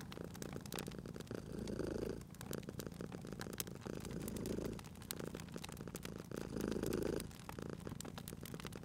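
Domestic cat purring steadily, swelling louder three times, about every two and a half seconds with its breathing, while a wood fire crackles with scattered sharp pops.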